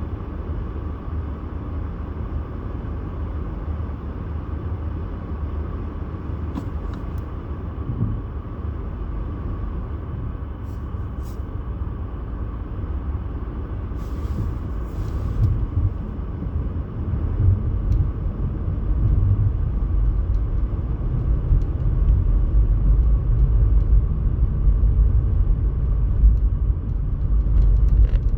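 Steady low rumble of a road vehicle driving, growing louder through the second half, with a brief rustling noise about halfway.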